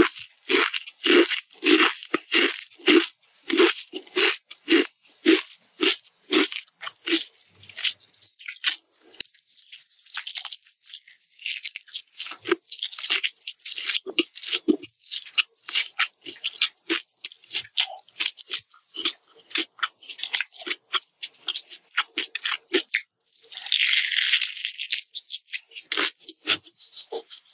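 Close-miked chewing of crunchy Pringles potato chips: regular crunches about two and a half a second, giving way after about seven seconds to lighter, quicker chewing clicks. A brief hiss comes near the end.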